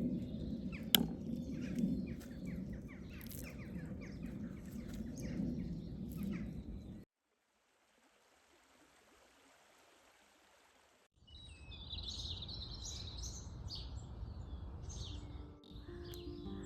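Outdoor ambience of birds chirping over a low steady rumble, with a sharp click about a second in. A few seconds of near silence in the middle, then the birds return louder.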